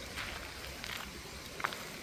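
Footsteps of a person walking at an even pace, three steps about two-thirds of a second apart, over a steady background hiss.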